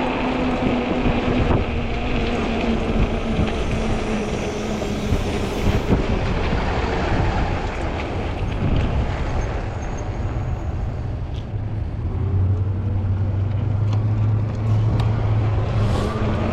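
Riding noise from an Ecotric folding fat-tire e-bike: wind rushing over the microphone and tyre noise, with a steady hum from the hub motor that fades away partway through and returns, rising in pitch, near the end.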